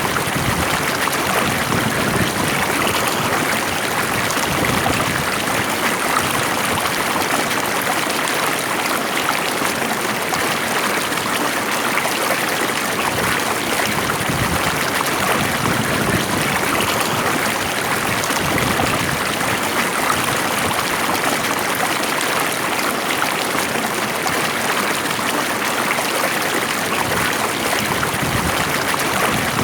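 Water flowing in a stream, a steady, even rush of running water.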